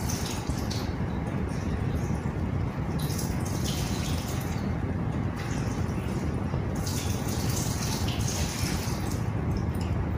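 Chipsi mayai, potato chips set in beaten egg, frying and sizzling in a pan on a gas stove: a steady low rumble with bouts of fine crackling that come and go.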